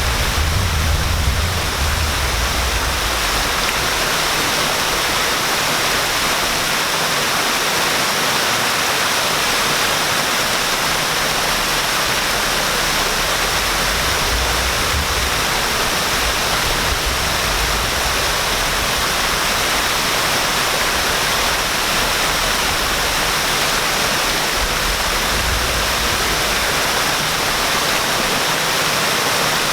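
Waterfall: water pouring and splashing in a steady, unbroken rush. A deep low rumble comes and goes underneath, strongest at the very start.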